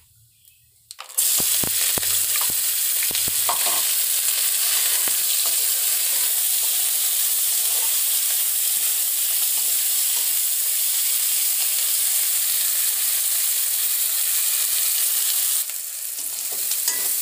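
Chopped onions, green chillies and ginger-garlic dropped into hot oil in an aluminium kadhai for a tempering: a loud sizzle starts suddenly about a second in and keeps up steadily as they are stirred with a slotted spatula, with a few knocks of the spatula early on. The sizzle eases slightly near the end.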